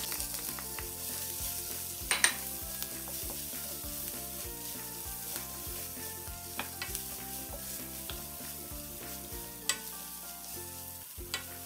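Chopped onion sizzling steadily in hot oil with garlic in a nonstick wok as a wooden spatula stirs it. A few sharp knocks against the pan, the loudest about two seconds in.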